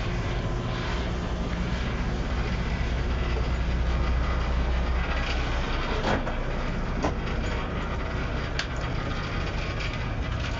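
Steady low engine rumble, with a few sharp knocks about six, seven and eight and a half seconds in.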